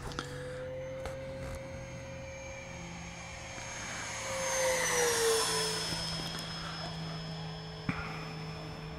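FMS Super Scorpion 70mm electric ducted fan jet flying past at high speed. Its fan gives a steady high-pitched whine that swells to its loudest about five seconds in, then drops in pitch as the jet passes.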